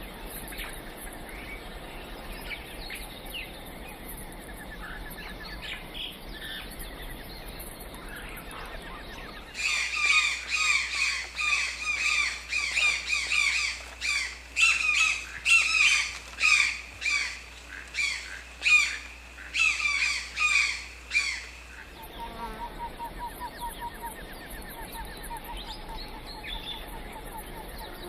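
Birds calling in the open, at first as soft scattered chirps. About ten seconds in, loud harsh squawking calls, several a second, start suddenly and run for about twelve seconds before cutting off. Then the soft chirping returns with a short rapid trill.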